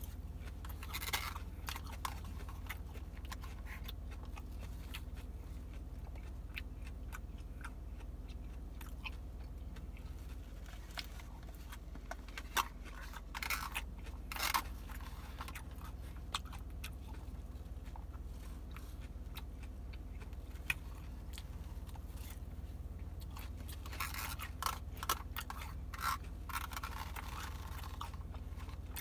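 A person chewing crunchy salad close to the microphone, mouth sounds with scattered small clicks and a few short, louder crunches, grouped about a second in, around the middle and a few seconds before the end.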